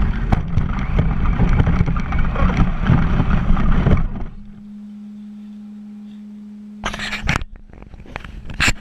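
Traxxas Slash 4x4 RC truck driving, heard from a camera mounted on it: a dense rush of tyre, chassis and wind noise with many small rattles and knocks. About four seconds in the driving stops and only a steady low hum is left, then a couple of short loud knocks near the end.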